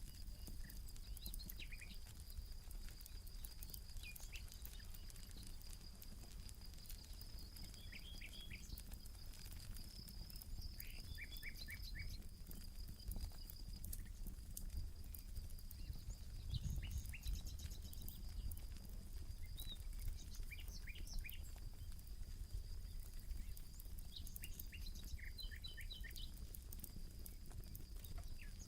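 Campfire crackling with many scattered small pops, under a steady high insect trill. Short bird chirps come in quick clusters of three or four every few seconds.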